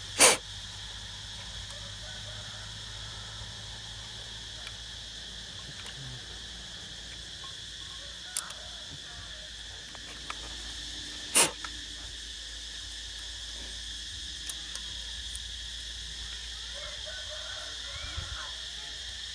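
A steady high-pitched chirring, typical of crickets or other insects, under a few sharp knocks. Two loud ones come about a third of a second in and about eleven seconds in, with fainter clicks between.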